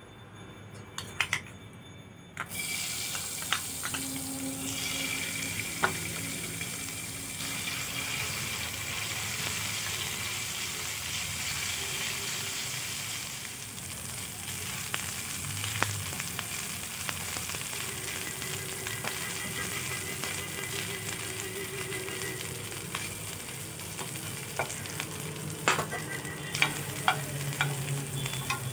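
Diced raw chicken hitting hot oil in a nonstick frying pan, starting to sizzle suddenly a couple of seconds in and sizzling steadily as it is stirred with a silicone spatula. Near the end come a few sharp clinks of utensils against the pan.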